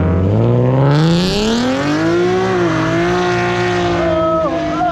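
Car engine revving hard as it accelerates away, its pitch climbing for about two seconds and then holding high.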